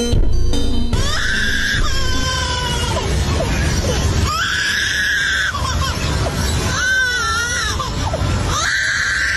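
About four long, high-pitched screaming cries, each lasting about a second, one wavering up and down, over a steady low music bed.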